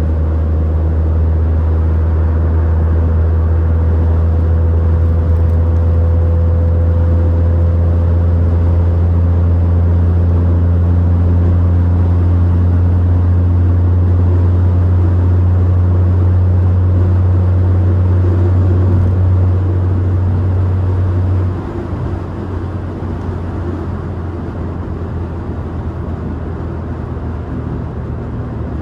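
Straight-piped, catless exhaust of a BMW 540i's B58 turbocharged inline-six, cruising with a steady low drone. About three-quarters of the way through the drone cuts out and the sound drops to a quieter, rougher engine and road noise.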